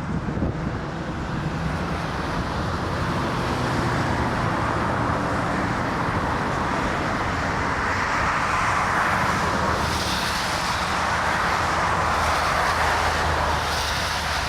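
Airbus A330 jet engines running, a steady noise that slowly grows louder over the first few seconds, with wind on the microphone.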